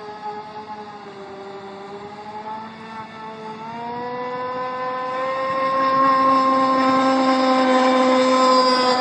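Radio-controlled boat motor running with a steady whine; about three and a half seconds in the pitch rises and it grows much louder, holding high and loud to the end.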